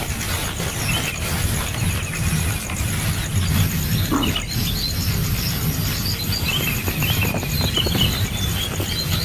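Outdoor ambience: a steady high insect drone with scattered short bird chirps over a constant low rumble.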